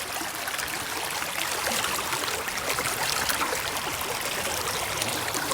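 Brook water flowing and trickling, a steady rush with no pauses.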